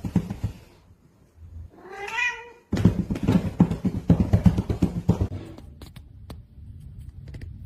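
A cat meowing once, a single call that rises and falls about two seconds in, followed by a busy run of knocks and scuffling that dies away.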